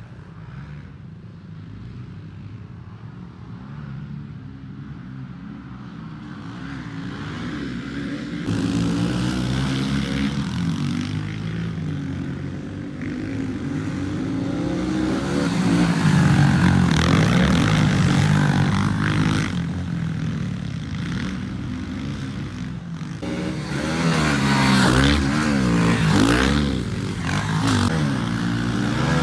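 Pit bike engine revving up and down as it rides the dirt track, changing pitch over and over with throttle and gears. It grows louder from about eight seconds in, loudest around the middle and again near the end.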